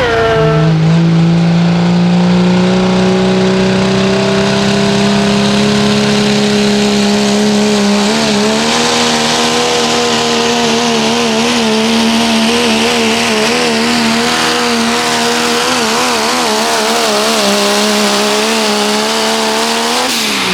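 Pickup truck's engine running wide open under heavy load as it pulls the weight sled, its pitch climbing slowly. From about eight seconds in the pitch wobbles rapidly up and down as the truck bounces down the track, and right at the end it drops off as the throttle is let off.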